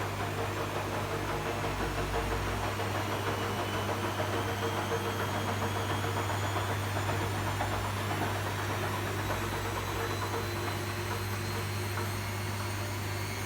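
Arçelik 3650 SJ front-loading washing machine running its wash cycle with a heavy quilt in the drum: a steady motor hum under an even, rough noise.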